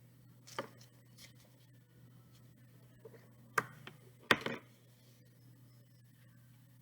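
Hands handling a glue bottle and a cardboard tube and circle: a few separate light taps and knocks, the loudest two a little under a second apart about three and a half seconds in.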